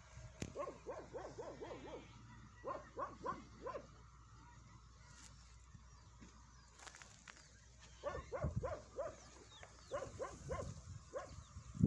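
A dog barking in quick runs of short barks, four bouts with pauses between them.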